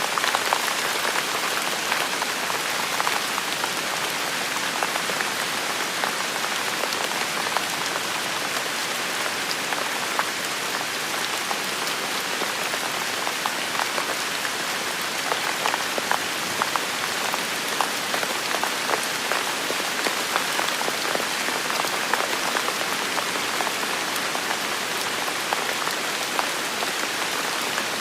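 Steady rain falling and pattering on hard surfaces, with many close individual drop impacts standing out from the even hiss.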